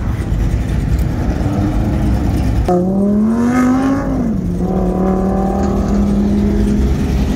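Car engines running with a deep rumble throughout. About two and a half seconds in, one engine revs up, its pitch rising for over a second, then drops back and holds a steady drone for a few seconds.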